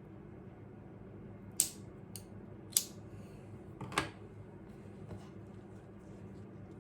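Four sharp clicks or taps, a second or less apart, then a fainter one, over a steady low hum.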